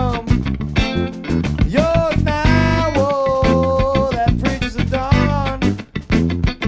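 A small funk band playing live: drums and bass under guitar, with a melody line of bending and long-held notes on top.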